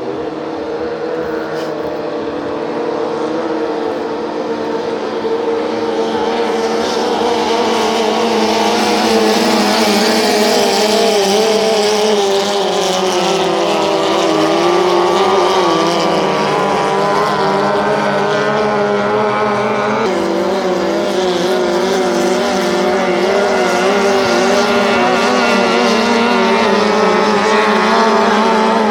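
Outboard motors of racing tunnel boats running at high revs, their pitch wavering up and down as the boats race. The sound grows louder over the first several seconds and shifts abruptly about two-thirds of the way through.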